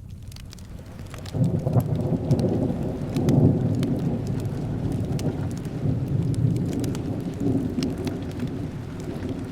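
Steady rain with a long rolling rumble of thunder that breaks in about a second in and carries on. Small crackles from a fireplace tick over it.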